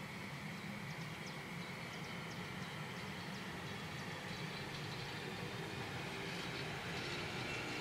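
ČD Cargo electric freight locomotive and its train of car-carrier wagons approaching: a steady rumble that grows gradually louder.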